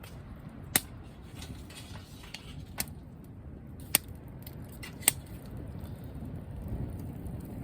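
Wood campfire burning with a low, steady rumble, and four sharp pops from the burning firewood.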